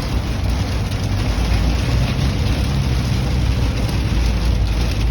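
Hail and heavy rain pelting a moving car's roof and windshield, heard from inside the cabin over a steady low road and engine rumble.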